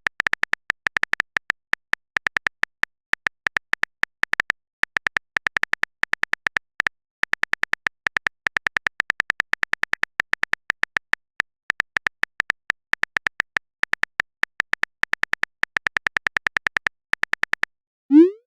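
Rapid keyboard-typing sound effect: a fast stream of short, high ticks in runs with brief pauses, the sound of a chat message being typed out. It stops near the end, followed by a short rising blip.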